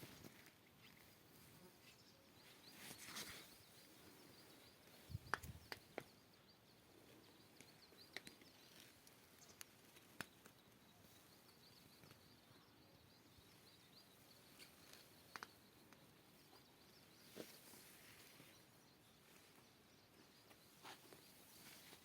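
Near silence: faint outdoor ambience with a few soft clicks, the loudest cluster about five seconds in.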